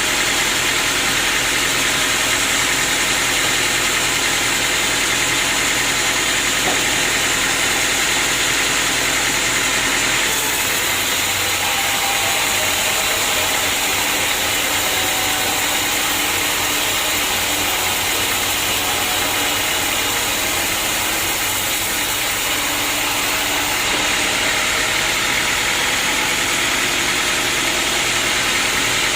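Sawmill machinery running steadily and loudly, a dense mechanical hiss and hum. Its sound changes at about ten seconds in and changes back about five seconds before the end.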